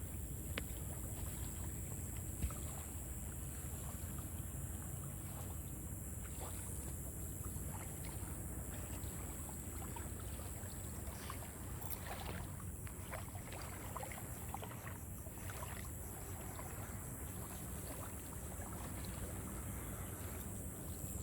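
Fishing kayak on the water: a steady low rumble with a faint high hiss and scattered light knocks and ticks.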